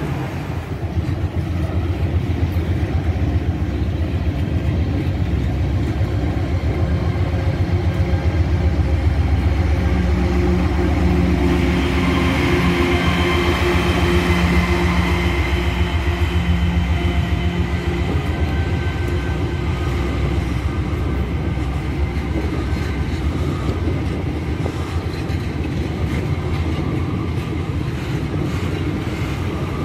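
A long freight train of tank cars rolling past close by, with a steady low rumble of wheels on rail. Midway, a diesel-electric locomotive coupled among the tank cars goes by, adding a steady engine hum with higher tones that swell and then fade.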